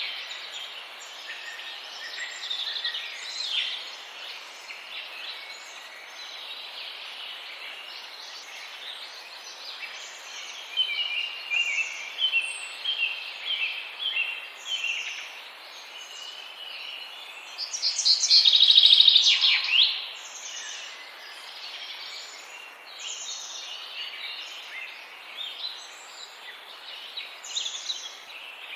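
Songbirds chirping and calling over a steady background hiss, with many short, high notes. A loud, rapid trill comes about two-thirds of the way through.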